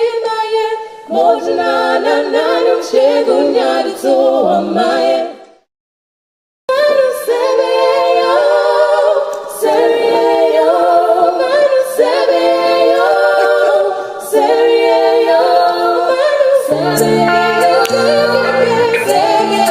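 A group of voices singing a cappella in harmony. The sound cuts out completely for about a second near the six-second mark, then the singing resumes, and a low bass part joins near the end.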